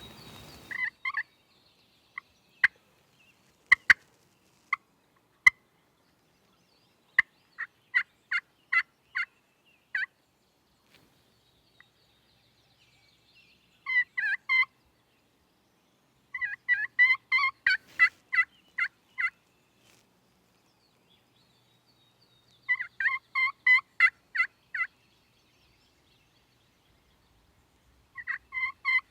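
Wild turkey calling at close range: single sharp notes now and then, then several runs of rapid, evenly spaced notes in quick series, a few seconds apart.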